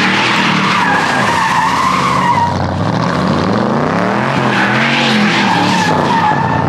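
Car doing a burnout: the engine revs up and down while the tyres spin and squeal. The squeal is strongest in the first couple of seconds and again near the end.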